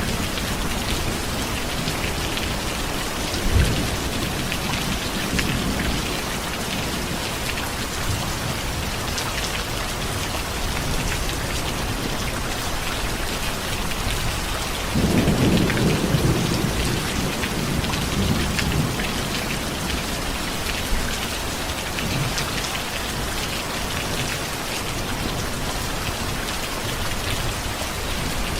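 Steady rain falling, with thunder: a short low thump about three and a half seconds in, and a longer rolling rumble of thunder about halfway through.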